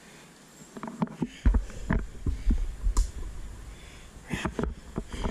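Muffled, irregular thumps and rubbing of a camera being handled against cloth, with deep rumbles and a few sharper knocks starting about a second in.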